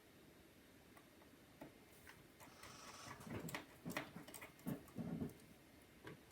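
Faint small clicks and taps of a precision screwdriver and small screws being worked into a MacBook's logic board, with a few short muffled knocks about halfway through.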